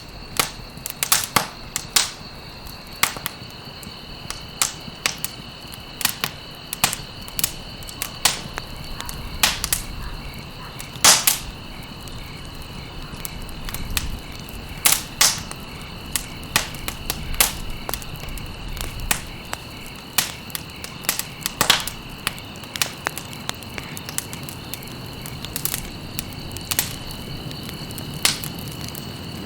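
Campfire crackling, with irregular sharp pops and snaps from the burning wood, the loudest about eleven seconds in. A steady high insect trill, like crickets, runs underneath.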